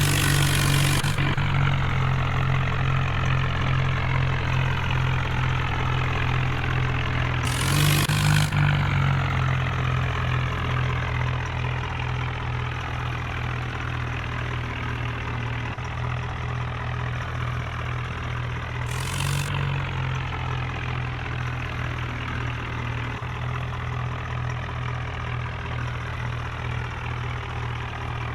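Heavy diesel engine of a tractor or JCB running steadily, rising briefly three times (near the start, about eight seconds in and about nineteen seconds in), each time with a short rush of noise.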